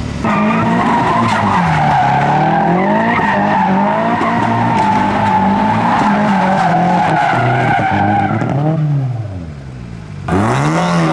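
A car spinning its wheels: a long tyre squeal over an engine held high and revving up and down. The revs and squeal drop away about nine seconds in, then come back sharply near the end.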